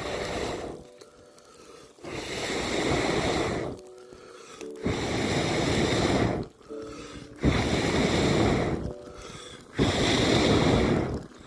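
A person blowing hard on the coals of a small cooking fire to make it burn hotter: four long breathy whooshes of air, each lasting one to two seconds, with short pauses for breath between.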